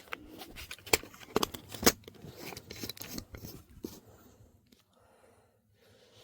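Clicks, knocks and crinkly handling noise from parts of a taken-apart CRT television being moved about by hand. Three sharp knocks stand out about 1, 1.4 and 2 seconds in, with smaller clicks until about 4 seconds in.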